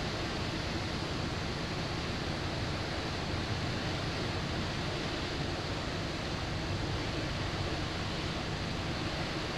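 Steady rush of wind and sea water heard aboard a moving ship, with a low hum underneath.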